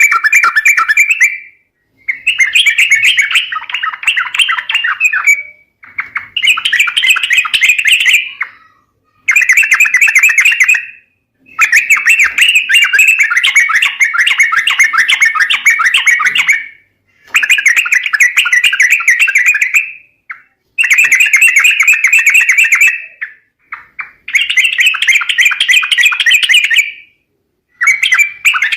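Yellow-vented bulbul (trucuk) lure call: loud bursts of rapid, chattering notes, each lasting one to a few seconds, repeated about nine times with short silent gaps between them.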